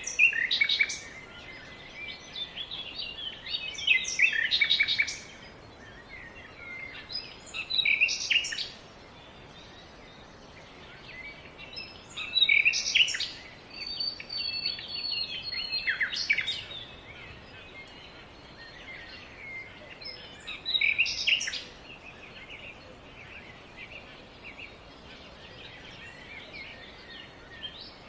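Birdsong: short phrases of high chirping notes, repeated every few seconds, over a faint steady background hiss.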